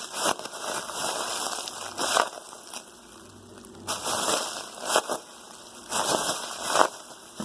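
Homemade squishy, a small plastic trash bag stuffed with cotton, crinkling and rustling as it is squeezed over and over in short bursts, with a quieter pause around the middle.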